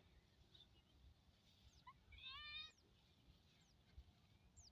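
One short bleat with a quavering, wavering pitch from a young farm animal about two seconds in, against faint, quick, falling chirps of small birds.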